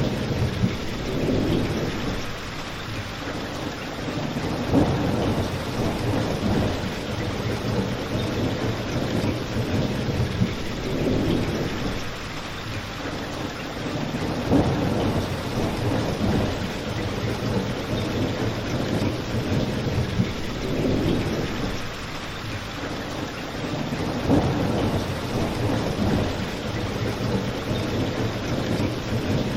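Steady rain, with a low rumble that swells and fades every few seconds, and a few sharp pops from a crackling fireplace.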